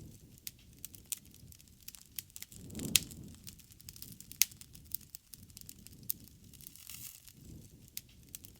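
Wood fire crackling and popping: irregular sharp snaps, a louder pop about three seconds in, over the low rush of the flames.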